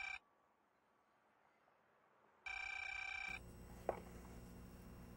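Electronic telephone ringing in a steady repeating pattern. One ring ends right at the start, another of just under a second comes about two and a half seconds in, and a single sharp click follows about a second later.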